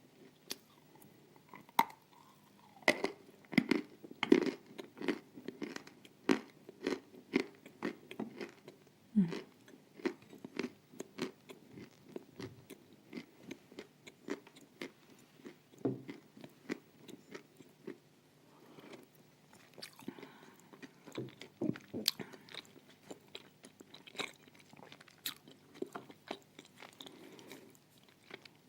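Close-miked biting and crunching of chunks of dry edible clay (Astana Ideal). Sharp crunches come thick and fast for the first several seconds, then thin out into slower, softer chewing.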